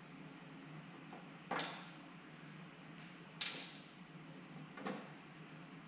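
A few separate sharp knocks and clinks from hand tools working on a two-stroke motorcycle engine during disassembly, the loudest about a third and halfway through.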